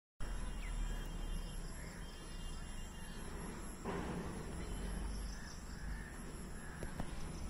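A few bird calls, the loudest about four seconds in, over a low steady rumble.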